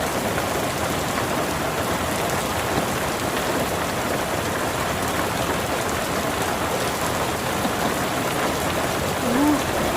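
Hail and rain falling on a rooftop: a dense, steady patter with scattered sharper ticks of hailstones striking.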